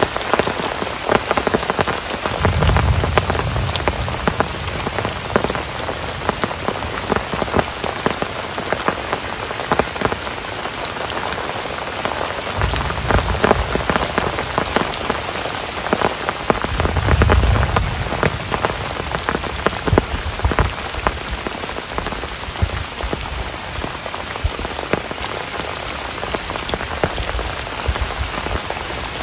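Heavy rain falling steadily in a forest, with many single drops striking close by. Short low rumbles come three times.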